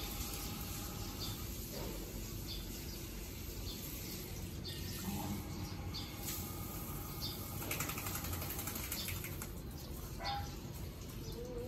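A bird chirping a short high note again and again, roughly once a second, over steady outdoor background noise, with a brief spell of hiss about eight seconds in.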